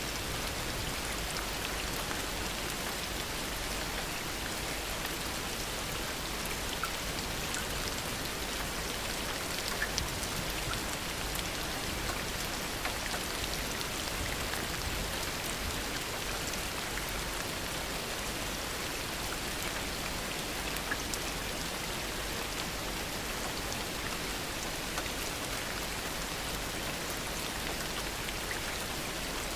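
Steady heavy rain falling, an even hiss with scattered individual drops ticking, and a few sharper drop hits about ten and twenty-one seconds in.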